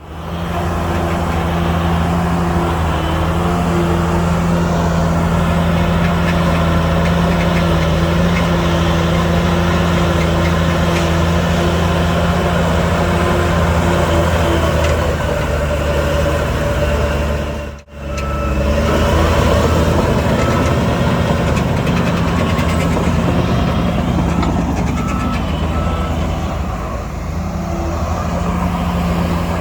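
Diesel engine of heavy earthmoving machinery running steadily under load. After a brief break partway through, a reversing alarm beeps in a steady series for several seconds over the engine.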